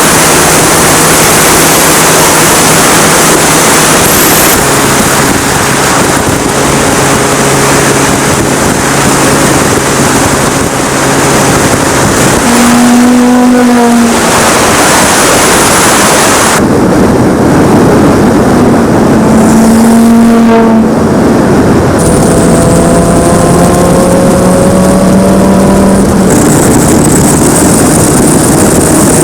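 The Audi TT clubsport turbo's turbocharged 2.5 TFSI five-cylinder engine and exhaust running loud, in several short cuts. It holds steady revs, swings briefly in pitch twice (about halfway and two-thirds in) and climbs in pitch as it accelerates near the end.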